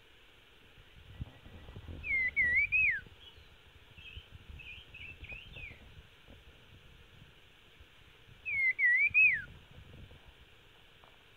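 Caged red-headed songbird singing a clear whistled phrase twice, each one wavering up and down and ending in a falling slide, with fainter answering whistles between them.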